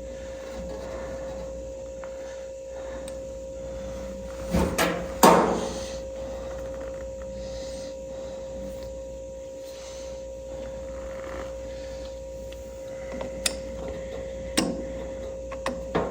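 Spark plug wires being handled and pushed onto the distributor cap and plugs of a 1951 Allis-Chalmers WD: a few sharp clicks and knocks with some rubbing, loudest about a third of the way in, then single clicks near the end. A steady hum runs underneath.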